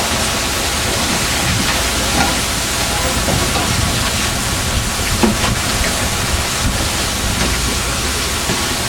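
Fishing boat underway at sea: a steady loud rush of engine and water noise, with a few faint knocks.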